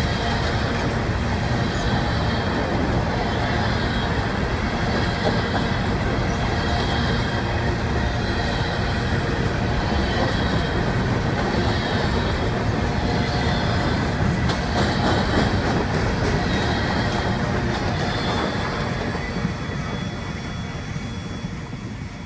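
Empty hopper cars of a freight train rolling past at close range, wheels clacking over the rails with a high squeal that comes and goes. The sound fades over the last few seconds as the end of the train passes and moves away.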